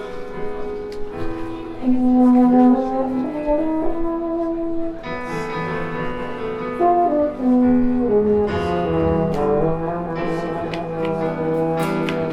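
French horn playing a slow melodic solo line of held notes, accompanied by jazz piano chords, with a few light percussive strikes.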